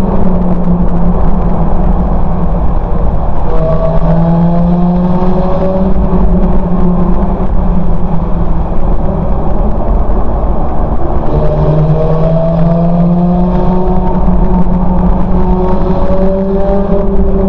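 Ferrari F430 Spider's V8 running on its stock exhaust under acceleration: the engine note climbs in pitch a few seconds in, holds, then climbs again about twelve seconds in and once more near the end.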